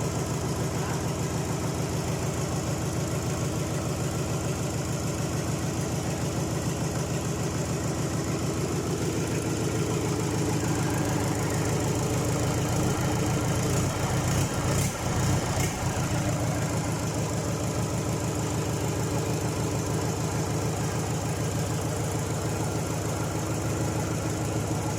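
Freshly overhauled Mitsubishi 4D32 four-cylinder diesel engine running steadily at a slightly raised idle during its break-in run, with an even, rapid firing beat. It gets a little louder for a few seconds around the middle.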